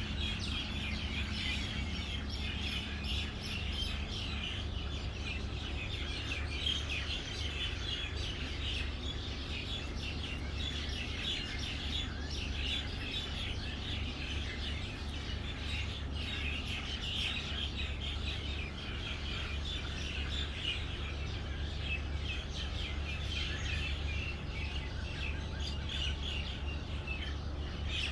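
Many small birds chirping and twittering continuously, a dense overlapping chorus of short high calls, over a steady low rumble.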